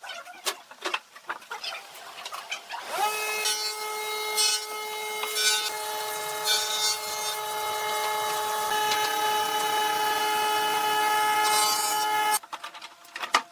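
A few knocks and taps, then about three seconds in a power tool's electric motor spins up with a quick rising whine and runs at a steady high whine, with intermittent rasping bursts as it works the wood. It cuts off abruptly near the end.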